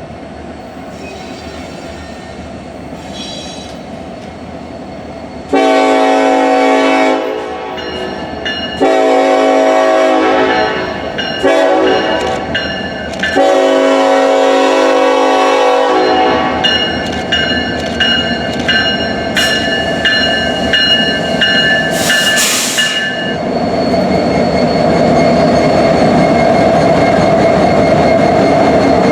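Union Pacific SD70AH locomotive sounding its horn in the grade-crossing pattern: two long blasts, a short one and a final long one. A bell then dings steadily as the train rolls by with a loud, steady rumble.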